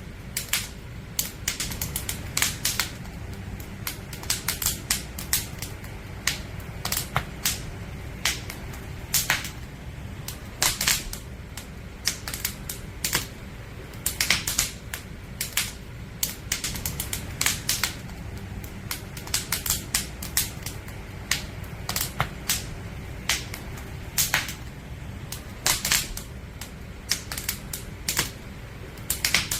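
Burning firewood crackling and popping: irregular sharp snaps, several a second, over a steady low rumble of the flames.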